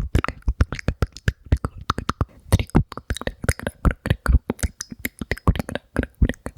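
ASMR mouth sounds close to the microphone: rapid, irregular wet clicks and pops of the tongue and lips, several a second.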